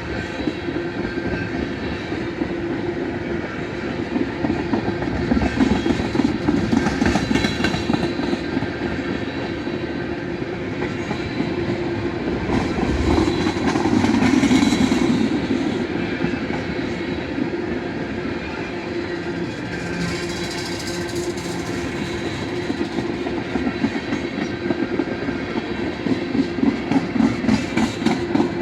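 CN oil train's tank cars rolling past close by. Steady rumbling noise with runs of rapid clicking from the wheels, and a brief swell in loudness about halfway through.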